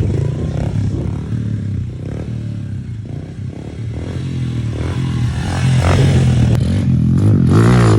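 Pit bike engines running and revving, getting louder toward the end as a bike passes close by.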